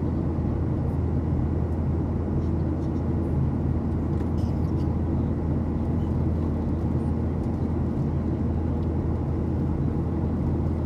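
Steady cabin drone of a Boeing 737-800 in flight: engines and airflow making an even low hum with a rushing hiss above it, unchanging throughout.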